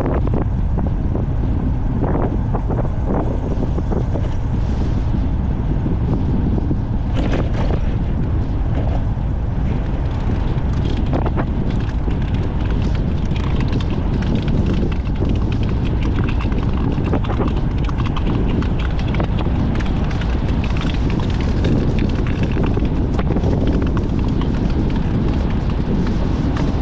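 Heavy, steady wind rumble on the microphone, with irregular clicks and rattles scattered throughout.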